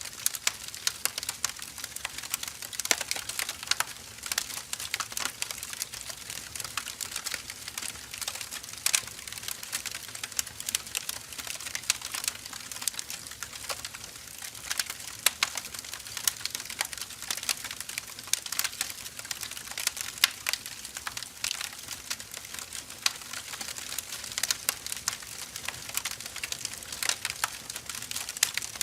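Firewood burning in an open fire: steady crackling and hissing with many small irregular pops and snaps, a few louder cracks standing out.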